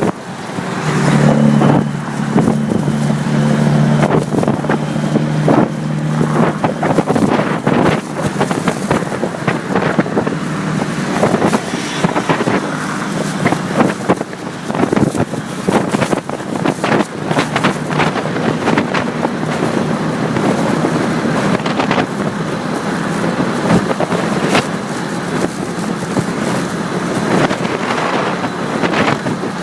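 Motorcycle engine running on the move, with heavy wind buffeting on the microphone. A low steady engine hum stands out for the first several seconds, then is mostly buried under the wind.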